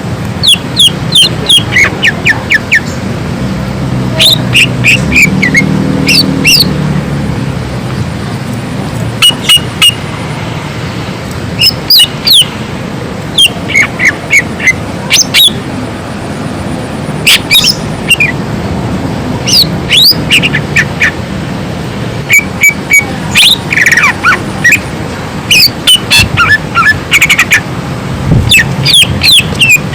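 Cucak ijo (green leafbird) singing in loud, rapid bursts of sharp whistled and chirping notes, many of them sweeping downward in pitch, with a new short phrase every second or two.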